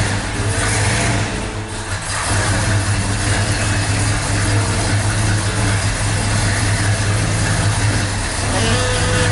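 Ford XB Falcon GS Fairmont's propane-fuelled V8 idling steadily. Near the end a higher steady whine joins in and the sound grows a little louder.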